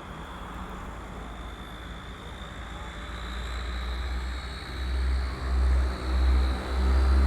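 Twin Rolls-Royce Dart turboprops of a YS-11 with their high whine, which climbs slowly in pitch over a low propeller rumble. The aircraft grows steadily louder, and the low rumble swells and dips in the second half.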